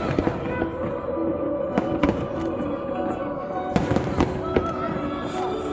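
Aerial fireworks going off in an irregular series of sharp bangs and crackles, several a second at times, over music playing throughout.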